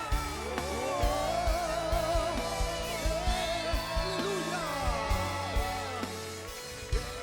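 Church worship music: a voice singing a wavering melody over held instrument tones and a steady drum beat.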